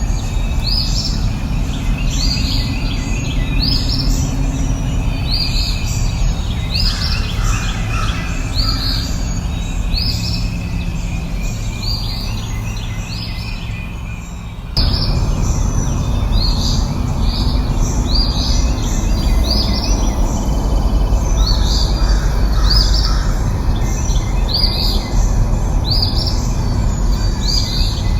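A bird calling over and over, short chirps about once a second, over a steady low rushing background. Halfway through, the background cuts abruptly to a louder rush and the chirping carries on.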